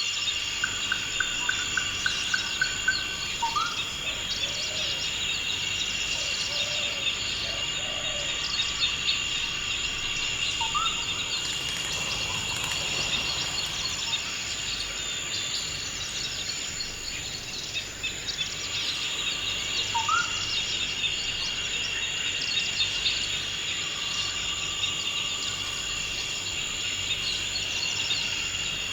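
Forest ambience: a steady, high insect chorus with bird calls over it. A quick run of short notes comes near the start, and a short rising whistle sounds three times, about ten seconds apart.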